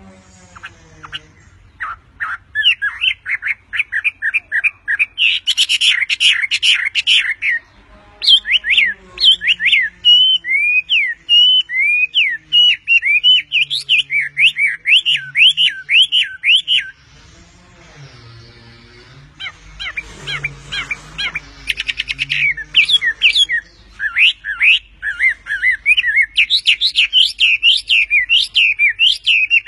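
Wambi songbird singing a loud, rapid song of short whistled chirps that sweep up and down in pitch. The song goes in long runs with brief pauses.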